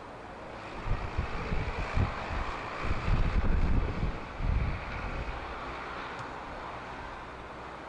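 Strong wind gusting across the microphone, with uneven low buffeting for the first few seconds over a steady distant rushing that swells and then fades.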